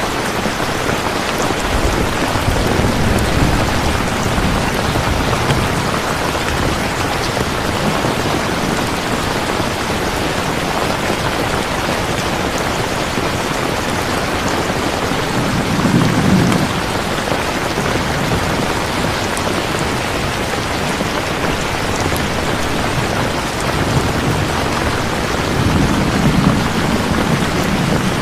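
Steady heavy rain, with low rumbles of thunder a few seconds in, about halfway through and near the end.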